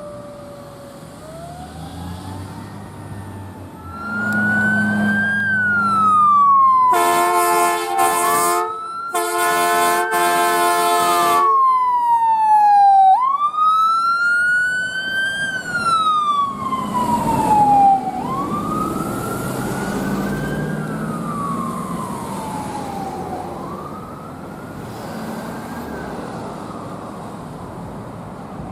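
Emergency vehicle siren in a slow wail, rising and falling in pitch every few seconds, with two long air-horn blasts in its first half. It is loudest through the middle of the clip, where a heavy engine rumble is also heard, and gets quieter near the end as the vehicle moves away.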